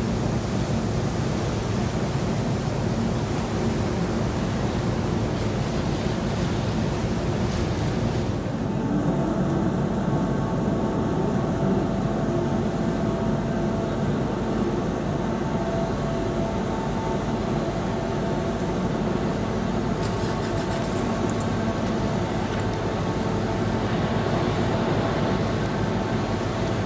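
Steady drone of a passenger ferry's engines and machinery, with faint steady hum tones, and wind and sea hiss over it that drops away suddenly about eight seconds in.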